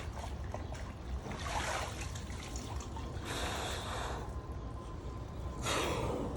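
A person breathing hard through the cold of an ice-water plunge, with three forceful hissing exhales, and a faint trickle of water.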